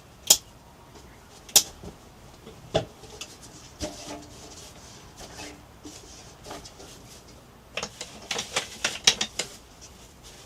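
Sharp clicks and knocks of objects being handled: a few single clicks spaced a second or so apart, then a quick rattling run of clicks near the end.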